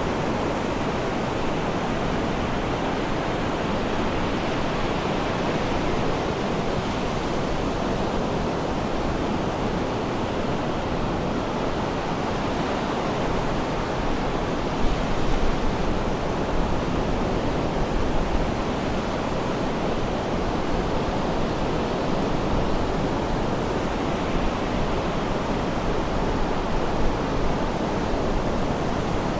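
Sea surf washing in a steady, continuous rush, with a few slightly louder surges about halfway through and near the end.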